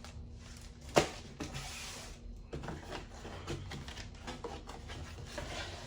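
Packaging and papers being handled and set down: a sharp knock about a second in, followed by rustling and scattered small clicks.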